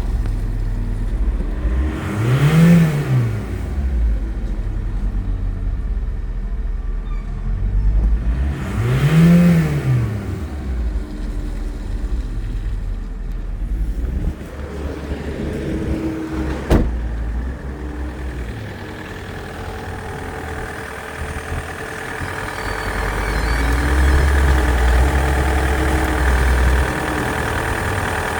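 Toyota Avensis 2.0 D-4D 1CD-FTV four-cylinder turbodiesel running at idle, revved up and back down twice, about three and nine seconds in. A single sharp click comes a little after halfway.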